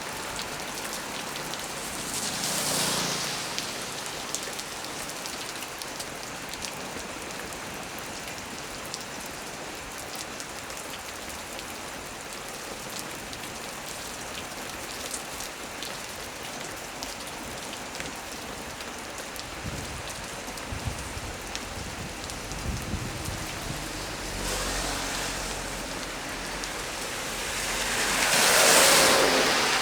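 Heavy rain falling steadily on leaves, a constant hiss. Low rumbles of distant thunder come through in the second half, and the rushing noise swells up briefly twice, about three seconds in and again near the end.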